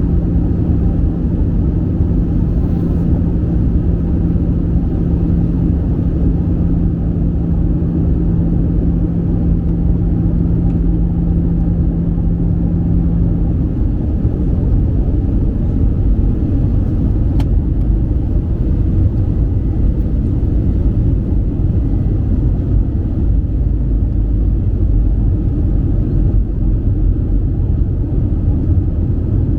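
Steady low rumble of airflow and jet engines heard inside the cabin of an Airbus A320 in flight, with a steady low hum that stops about halfway through and a faint click a few seconds later.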